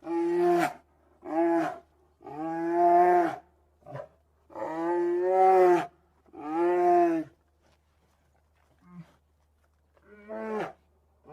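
Bear calling: a series of about seven pitched calls, some long and some short, with a pause of about two seconds before a last short call near the end.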